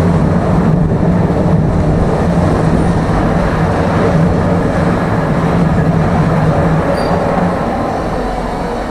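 A tram running along its track, heard from inside the passenger car: a steady rumble of wheels and running gear with a low hum that fades out about seven and a half seconds in.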